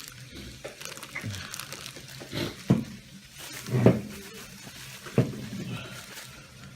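Handling of a new aftermarket engine mount and its packaging: light rustling with three sharp knocks about a second apart.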